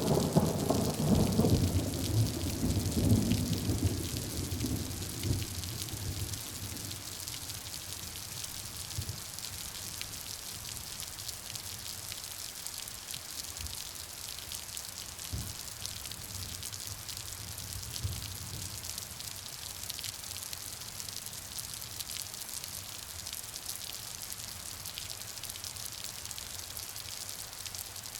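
Steady rain falling, a continuous hiss of drops. A low rumble of thunder dies away over the first few seconds.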